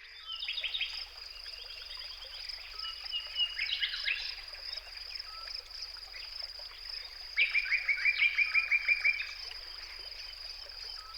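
Wild birds calling in rapid, chattering trills of repeated short notes. The loudest is a run of about a dozen quick notes about two-thirds of the way through, heard over a steady high-pitched tone.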